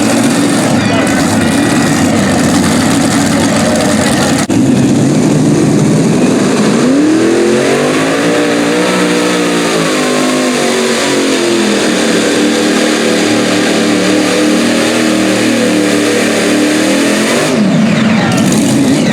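Super modified pulling tractor's engines running loud at full throttle during a pull. The pitch rises about a third of the way in, holds high, then falls away near the end as the throttle is lifted.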